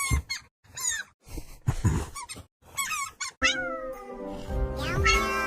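A kitten meowing: a run of short, high calls that slide in pitch, with brief gaps between them. About three and a half seconds in, background music starts suddenly.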